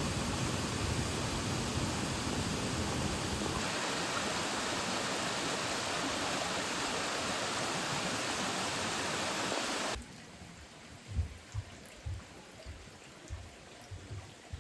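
Steady, even rush of water noise, cutting abruptly about ten seconds in to a much quieter background with a few soft low thumps.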